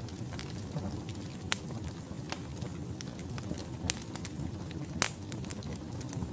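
Wood fire burning in a fireplace: a steady low rumble of the flames with scattered sharp crackles and pops from the logs, three of them louder than the rest.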